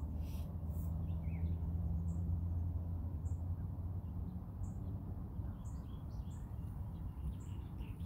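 A small bird chirping repeatedly, short high chirps about once a second, over a steady low hum.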